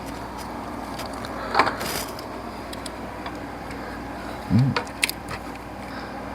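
Hand tools and metal parts clinking and knocking during work on a car's alternator mounting: scattered sharp clicks, a louder clank a bit over a second in and a dull thump about four and a half seconds in, over a steady low hum.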